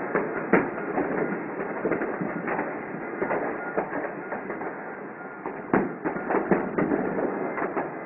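Many fireworks going off at once: a dense, irregular string of bangs and crackles with no pause, the sharpest bangs shortly after the start and around six seconds in.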